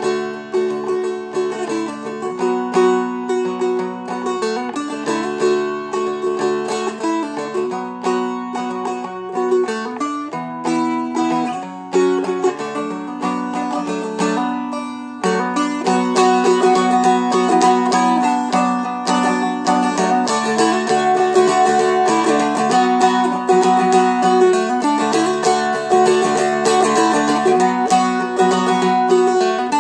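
Seagull Merlin M4, a four-string mountain-dulcimer-style instrument, flatpicked through a slow chord-and-melody arrangement in B minor, with slides up the neck. The strumming gets louder and fuller about halfway through.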